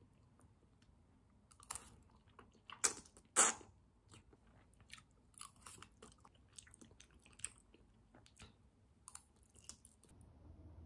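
Close-up eating sounds of a person chewing a mouthful of thick, chewy stir-fried udon noodles: a few louder wet mouth sounds about two to three and a half seconds in, then many small, soft wet clicks of steady chewing.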